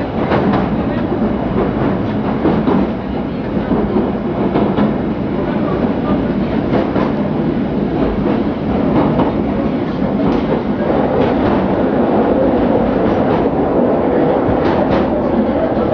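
1938 Tube stock electric train heard from inside the carriage, running along the track: a steady rumble of wheels on rails with irregular clicks over the rail joints, a little louder in the last few seconds.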